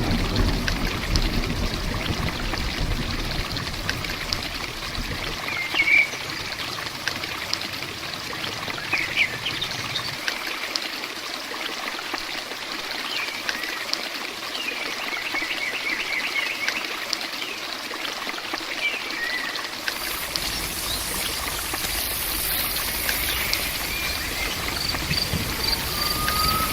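Steady hiss of rain and running water, with short bird chirps now and then. About twenty seconds in, the hiss turns brighter.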